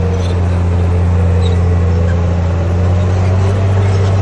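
Komatsu D58P bulldozer's diesel engine running steadily, a deep, even drone with no break.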